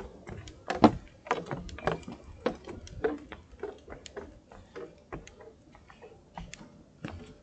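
Irregular sharp clicks and knocks, about two or three a second, over a low rumble; they grow fainter near the end.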